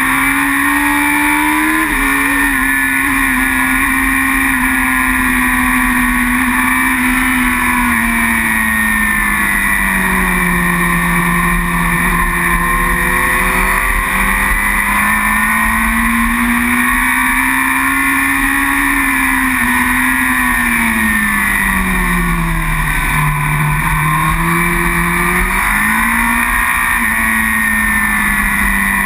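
Superbike engine running hard at race pace, its revs climbing and falling through the corners, with a quick rise and drop about two seconds in and its lowest dip a little after the middle.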